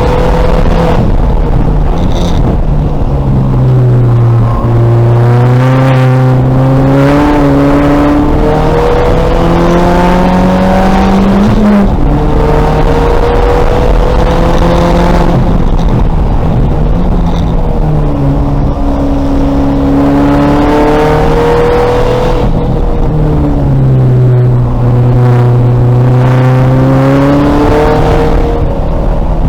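Race-prepared 2000 VW Golf's engine accelerating at full throttle on track, its pitch climbing and then dropping sharply several times as it goes through the gears and lifts, over steady road and wind noise.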